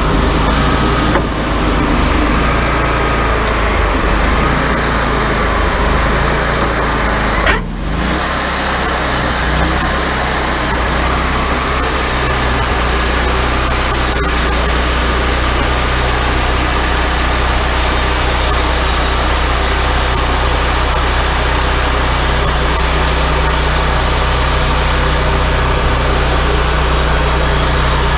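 Wood-Mizer LT40 portable band sawmill running steadily, its engine humming under load as the band blade saws through the wood, with a wavering whine in the first part. The sound breaks off briefly about a quarter of the way through, then carries on just as steady.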